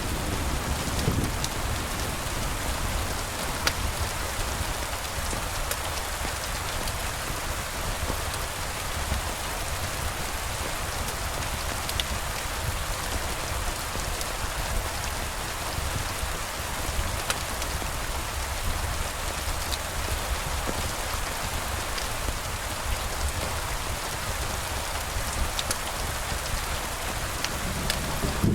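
Steady rain falling, with occasional sharp ticks and a constant low rumble underneath.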